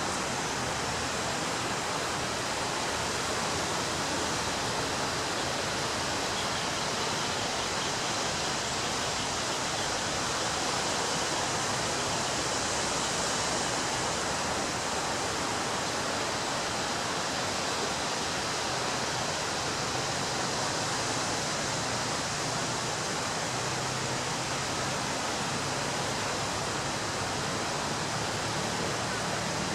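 Ocean surf: waves breaking on a beach, heard as a steady, even wash of noise with no single crash standing out.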